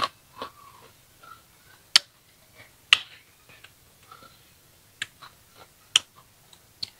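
Crisp crunches of someone chewing young green ambarella fruit close to the microphone: sharp, separate crunches about once a second, with faint mouth sounds between them.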